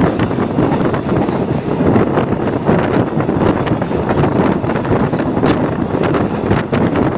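Passenger train running along the line, heard from inside the carriage: a steady rumble and rattle of the coach, with wind buffeting the microphone and scattered clicks and knocks, one sharper one about five and a half seconds in.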